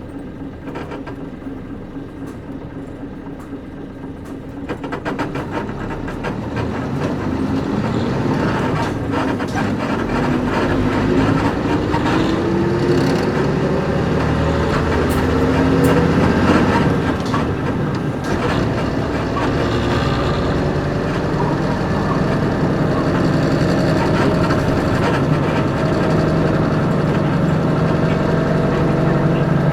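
Nissan Diesel KC-UA460LSN bus's PG6 diesel engine, heard from inside the bus: running quietly for a few seconds, then getting louder about four to five seconds in as the bus pulls away. The engine note rises, drops once around the middle as the manual gearbox changes up, and rises again.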